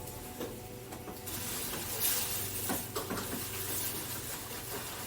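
Rustling with a few light clicks of Christmas ornaments being unpacked and handled. The rustle peaks about two seconds in.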